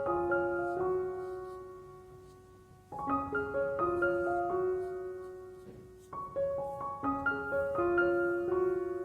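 Background piano music: gentle rising arpeggios that ring and fade, a new phrase starting about every three seconds.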